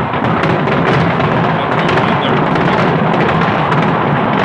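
Fireworks display: a dense, continuous barrage of aerial shells bursting, a steady rumble of booms with many sharp cracks scattered through it.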